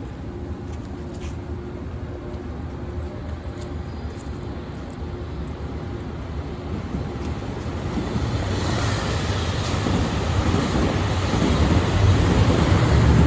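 HOT7000-series diesel limited express train approaching through a station, its rumble growing steadily louder from about eight seconds in.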